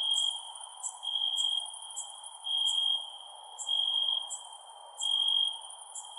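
Crickets chirping. A pulsing trill about half a second long repeats roughly every second and a bit, over shorter, higher chirps about twice a second and a faint steady hiss.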